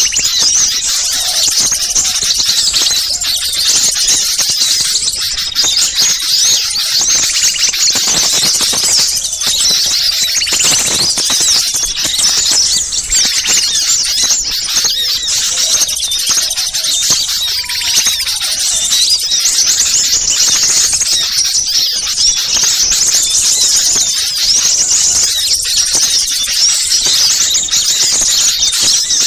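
Dense, continuous chorus of many small birds' high-pitched, agitated chirps and twitters, overlapping without a break: a small-bird lure recording of noisy, excited calls.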